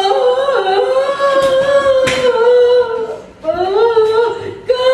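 A person singing unaccompanied, holding long, wavering notes, with a short break for breath about three seconds in.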